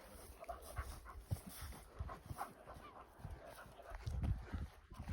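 A dog panting softly on a walk, with a low rumble coming in near the end.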